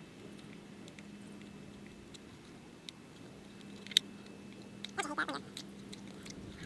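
Scraping old double-sided adhesive off a plastic car reflector: faint scratching with a few light clicks, one sharper click about four seconds in. A short high call is heard about five seconds in.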